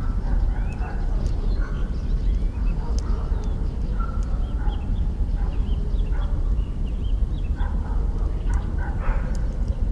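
Wood campfire crackling with scattered sharp pops, while birds chirp in short calls in the background over a steady low rumble.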